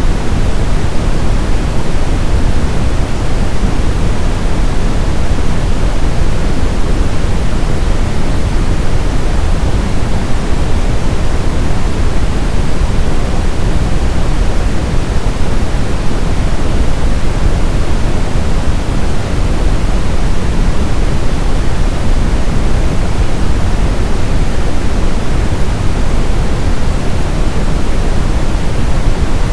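Synthetic brown noise: a steady, loud, deep rushing hiss, strongest in the low end and thinning toward the highs, unchanging throughout.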